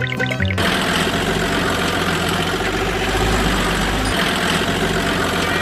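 A motor running steadily with a dense mechanical rattle and a low hum, cutting in about half a second in as music stops abruptly.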